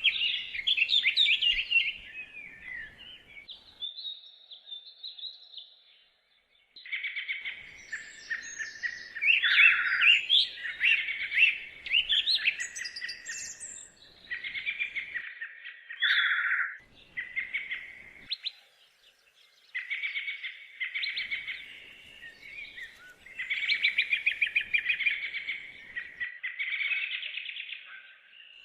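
Songbirds singing: phrases of rapid chirps and trills, high-pitched, broken by short pauses about six seconds in and again around seventeen seconds.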